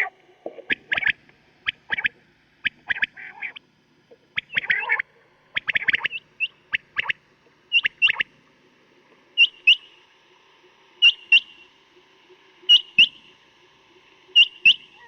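Quail (batair) calling: a run of sharp, clustered high notes, then from about nine seconds in a regular call of two quick sharp notes repeated roughly every second and a half to two seconds, as used on a quail-hunting caller tape.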